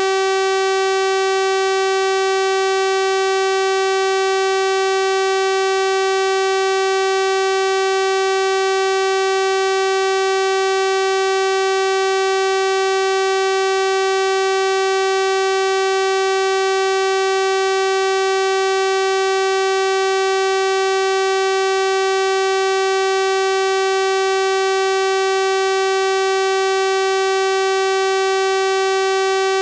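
A steady synthesized 384 Hz sawtooth-wave tone, a bright, buzzy single pitch with a full stack of overtones, held unchanged.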